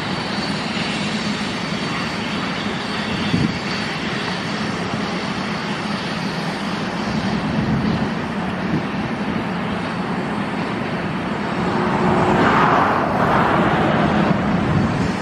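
Distant BNSF GE diesel locomotives pulling an empty grain train, a steady engine drone with the rumble of the train. It grows louder for a couple of seconds near the end.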